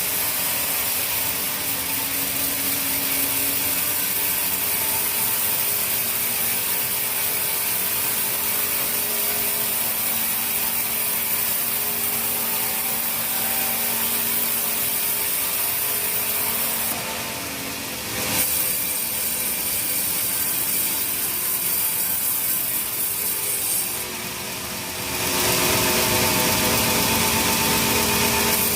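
Sawmill saw running steadily on teak timber, with a hissing cutting noise. The noise dips briefly twice, with a single sharp knock about two-thirds of the way through, and runs louder near the end.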